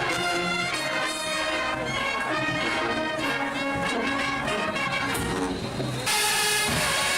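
Marching band brass section, with trumpets and trombones, playing a melody. About six seconds in, the sound changes abruptly to louder brass over a steady hiss.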